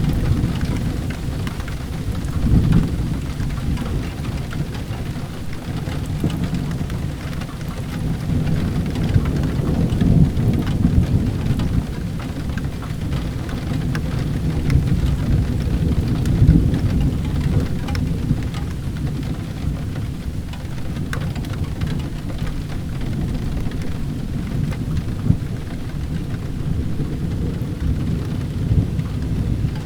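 Steady rain with low rolling thunder that swells and fades several times, and a few faint crackles of a wood fire in a fireplace.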